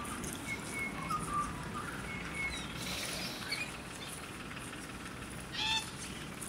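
Birds calling: a few short, thin whistled notes in the first half, then one short, harsh call near the end, over a steady low background rumble.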